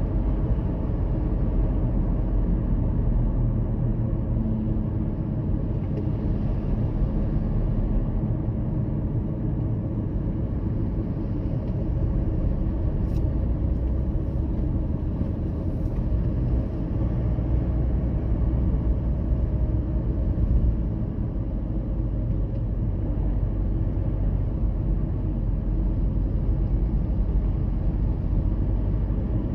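Steady low rumble of road and engine noise from a vehicle travelling at motorway speed.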